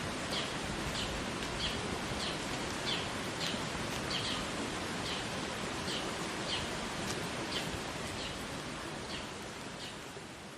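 Steady outdoor rushing noise with a bird repeating a short high chirp about twice a second.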